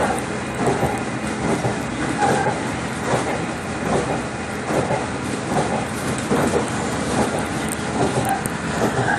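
Steady rumbling running noise from a moving vehicle, with a regular clack a little more than once a second.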